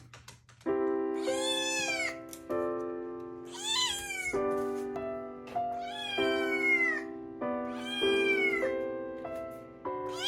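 A cat meowing five times, each a drawn-out meow that rises and falls, about two seconds apart, over background music with slow held chords.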